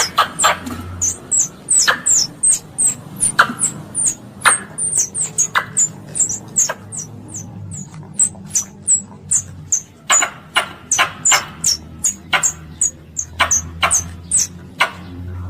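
Squirrel calling: a rapid, uneven series of short, sharp, high chirps, each dropping in pitch. This is the call a squirrel uses to draw other squirrels to it.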